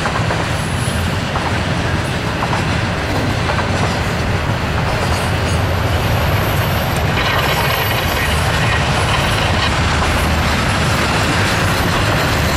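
Double-stack intermodal freight cars rolling past on steel wheels: a steady, loud rumble of wheels on rail with a few scattered clicks.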